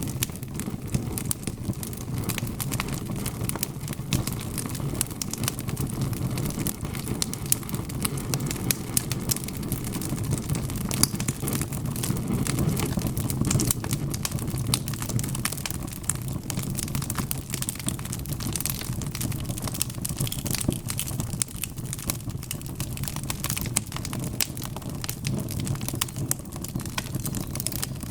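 Wood fire burning: a steady low rumble of flames with frequent sharp crackles and pops from the burning wood, one louder pop about eleven seconds in.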